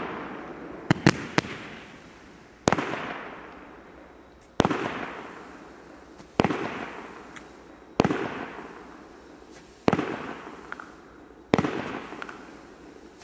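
Consumer firework battery from the 'Moritzburg' set firing shot after shot: six bangs about every two seconds, each followed by a long fading crackle. A few quick sharp cracks come about a second in.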